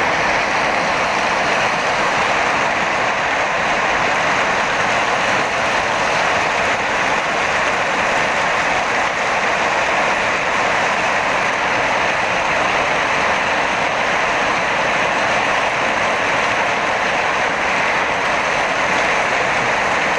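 Heavy hailstorm: ice and rain pelting down in a steady, dense hiss that does not let up.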